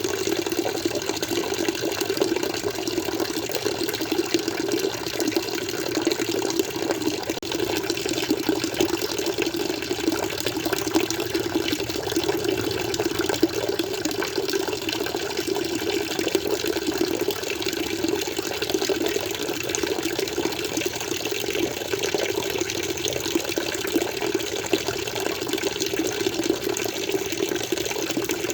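Water flowing steadily, an even, unbroken rushing sound with a low, full body.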